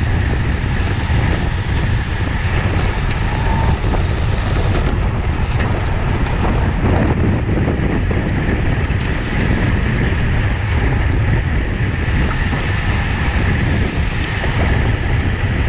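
Steady, loud wind rushing over the microphone of a camera on a racing bicycle moving at race speed.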